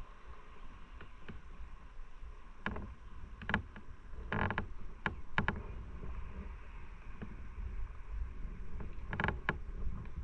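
Motorcycle on the move: a steady low rumble of engine and road, broken by sharp clunks and rattles, with a cluster in the middle and another pair near the end.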